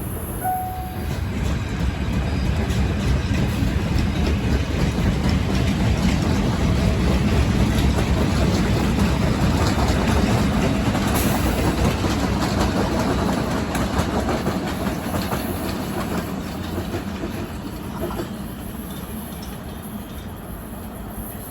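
A passing train rumbling and clattering over the rails, with rapid wheel clicks. It swells over the first couple of seconds, holds, then fades away over the last few seconds.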